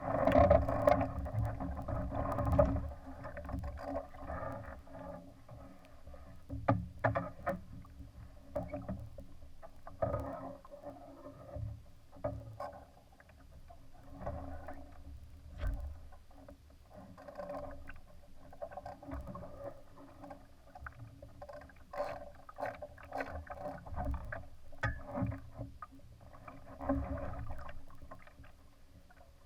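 Water slapping and gurgling against the hull of a Laser sailing dinghy in uneven surges, loudest in the first few seconds, with scattered sharp knocks.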